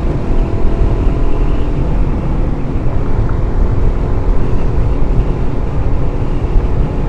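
Wind buffeting a microphone inside a motorcycle helmet's cheek pad while riding a supermoto at road speed, a loud steady rumble with the engine's drone faintly underneath in the first couple of seconds.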